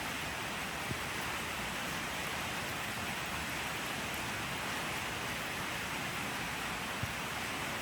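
Steady rain falling, an even hiss with a couple of single drops standing out, about a second in and near the end.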